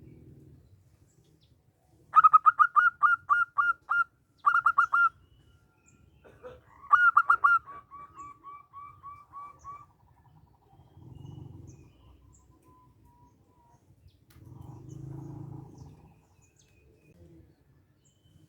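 Zebra dove (perkutut) singing: fast runs of short, clear staccato cooing notes in three loud bursts. The last burst trails off into a softer, even run of notes.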